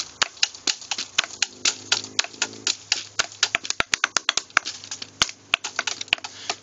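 Improvised drumming on natural objects (rocks, wood and a tree) in place of a drum kit: a fast, uneven run of sharp knocks and clicks, several a second.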